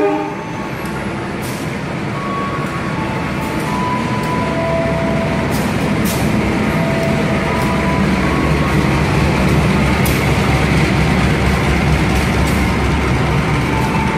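Diesel-electric locomotive hauling a passenger train into a station, its engine rumble and the rolling of the train on the rails growing steadily louder as it draws alongside.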